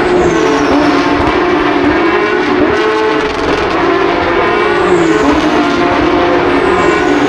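Several race car engines running hard on track, their pitch rising and falling through gear changes and downshifts, with no pause.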